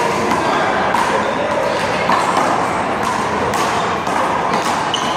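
Handball rally: a rubber handball struck by hand and smacking off the wall and ground, several sharp hits over a steady background of people talking.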